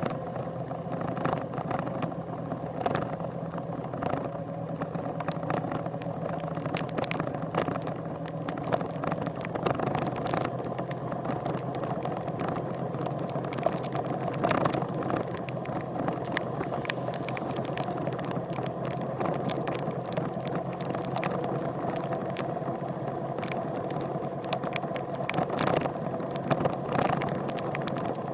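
A motorcycle engine running at a steady speed, with frequent sharp clicks and rattles over it.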